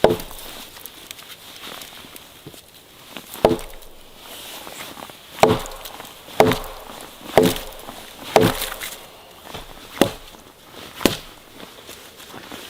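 Wood being chopped with an axe: about eight sharp strikes, spaced unevenly at first and then roughly one a second, each with a short ringing tone from the wood.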